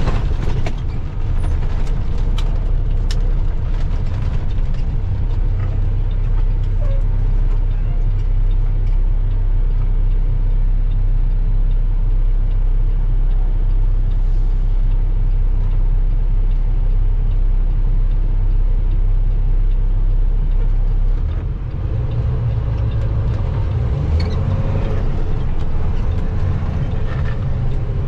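Truck engine and road noise heard from inside the cab while driving, a steady low drone. A few light clicks come in the first few seconds, and about two-thirds of the way through the engine note dips and settles at a different pitch.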